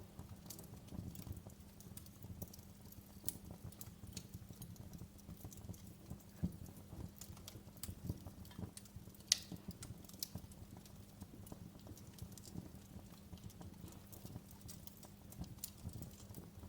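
Fireplace fire crackling: irregular snaps and pops over a low steady rumble, with one sharper pop a little past the middle.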